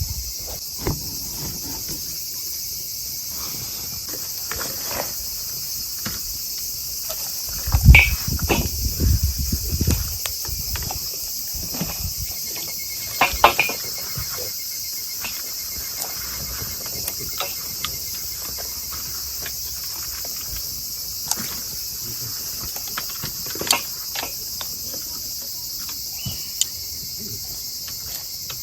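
Steady high-pitched chorus of night insects, crickets, with scattered sharp cracks and knocks over it. The loudest is a cluster of cracks and low thumps about eight seconds in, and shorter ones come around the middle and later.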